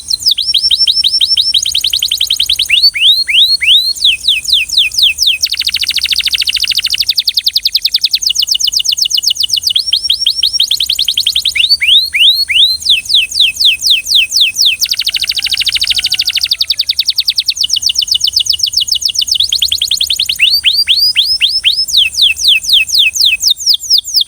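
Belgian canary singing: long rolls of fast, identical falling notes, each roll a few seconds long, alternating with buzzier trilled passages, with hardly a pause.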